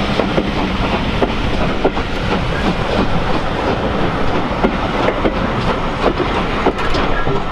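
A train running along the track: a steady rumble of wheels on rail with frequent, irregular clicks and knocks.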